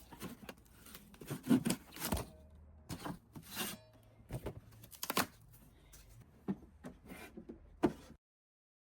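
Close hand-work on craft materials: an uneven series of scrapes, taps and knocks, a few of them sharper and louder, cutting off suddenly near the end.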